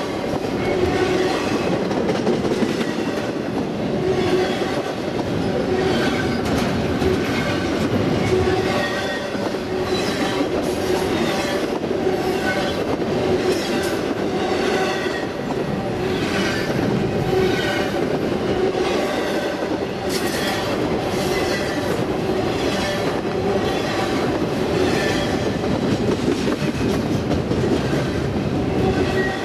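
Intermodal freight train of double-stack container and trailer well cars rolling past at speed, its wheels beating out a steady, rhythmic clatter over the rail joints.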